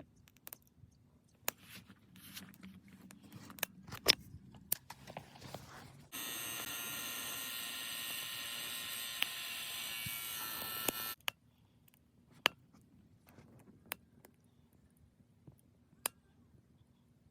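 Small electric blower fan of a Sierra Stove wood-burning camp stove switched on for about five seconds, a steady whirring hum that starts and cuts off suddenly. Scattered clicks and knocks before and after it.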